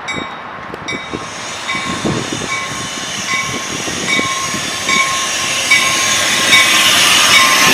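Train approaching on the mainline, its rushing rail noise building steadily louder. Over it a bell dings steadily, a little more than once a second.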